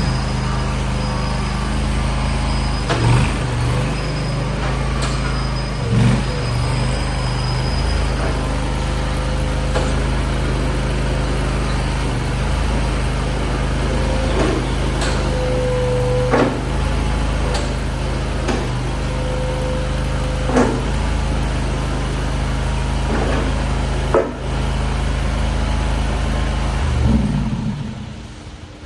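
Mini skid-steer loader engine running steadily, with occasional knocks, then shutting off about a second before the end.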